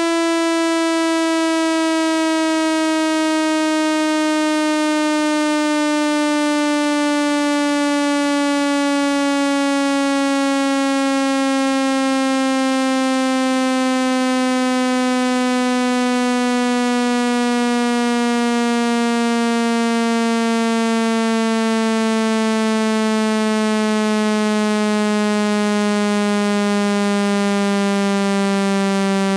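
Synthesized speaker-cleaning tone for pushing water out of a phone speaker: a loud, buzzy, steady tone whose pitch slowly glides downward.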